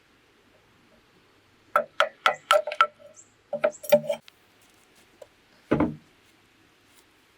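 Sharp, ringing knocks on bamboo in two quick runs of strikes, followed by a single duller, heavier thump about six seconds in.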